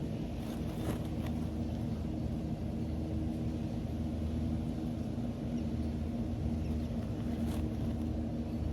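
Steady low hum of an electric fan motor, with a few faint clicks.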